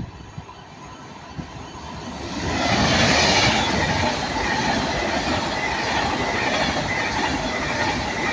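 Class 390 Pendolino electric train passing through at speed. Its noise builds about two seconds in, then stays loud and steady as the coaches go by.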